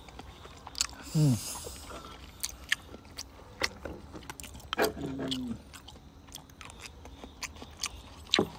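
People chewing and biting squid up close, with many small wet mouth clicks and smacks. A short murmur with falling pitch comes about a second in and again about five seconds in.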